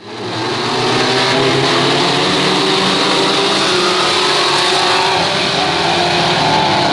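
Tough truck engines running hard under race load. The sound fades in over the first second and then holds steady and loud.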